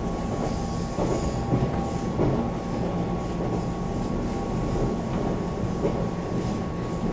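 Running noise heard inside a Taiwan Railway EMU700 electric multiple unit carriage at speed. A steady rumble of wheels on rail runs under a constant high hum, with a few brief clicks from the wheels.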